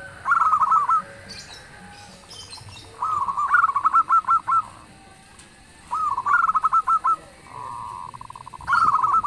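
Zebra dove (perkutut) cooing: four phrases of quick staccato coo notes, about one every three seconds, the last led in by a held steady note.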